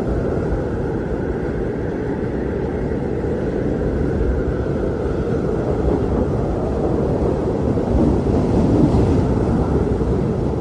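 Blizzard wind blowing hard and steadily, a deep rushing noise that swells a little near the end.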